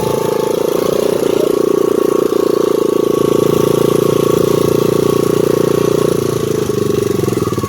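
2001 Honda XR100R's single-cylinder four-stroke engine running at steady high revs under way, easing off a little near the end.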